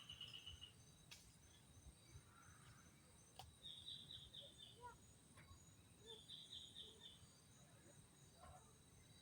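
Faint outdoor sounds: a bird repeats a short, rapid run of high notes about every three seconds. Under it runs a steady high insect whine.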